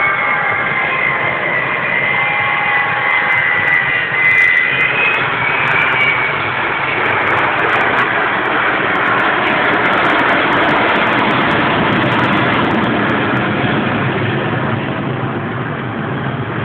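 Avro Vulcan bomber's four Rolls-Royce Olympus turbojets passing overhead. A high whine comes first, then a loud, full jet roar builds a few seconds in and eases slightly near the end.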